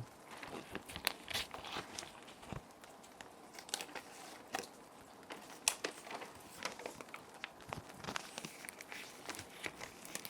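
Plastic sheet protectors crinkling and rustling as they are handled and paper sheets are slid into them, in irregular crackly bursts. A steady soft rain sound runs underneath.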